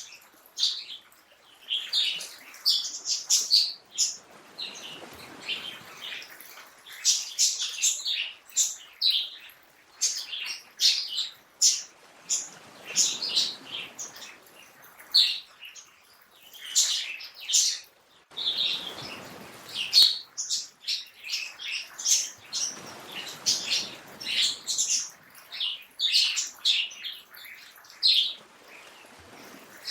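Songbirds chirping: many short, high calls overlapping, with a soft rushing sound that swells and fades several times underneath.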